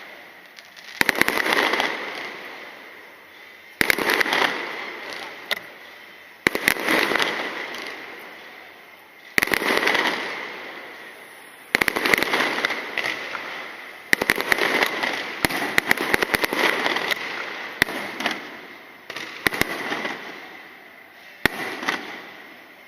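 Aerial fireworks shells bursting one after another, about nine in all at intervals of two to three seconds. Each burst is a sharp bang followed by a crackling shower that fades over a second or two.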